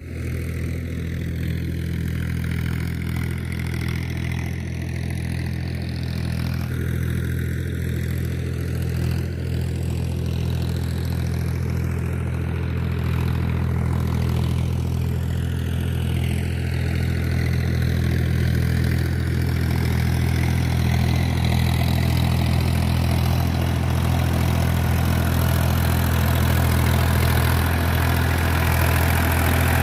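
Powertrac tractor's diesel engine running steadily, growing slightly louder toward the end.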